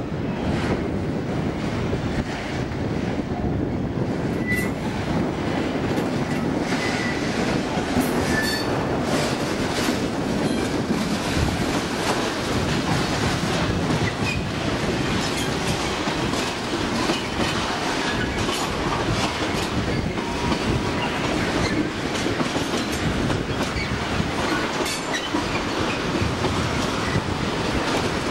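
Freight train hauled by a Class 60 diesel locomotive rolling past, wagons running over the rails with a steady rumble and clickety-clack, and a few brief wheel squeals.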